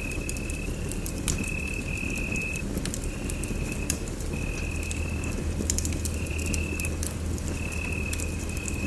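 Wood fire burning in a fireplace: irregular sharp crackles and pops over a steady low rumble, with a thin high whistling tone that comes and goes about once a second.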